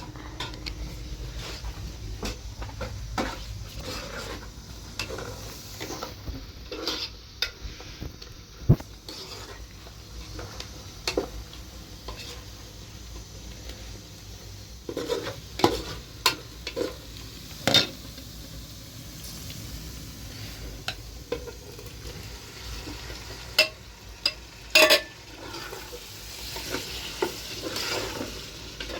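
Irregular clinks, taps and scrapes of hard objects being handled, with a few sharper knocks, over a low steady rumble.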